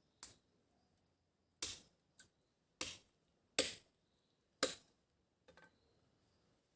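A knife chopping through a whole raw chicken, about six sharp strikes at irregular intervals, the last one faint and doubled.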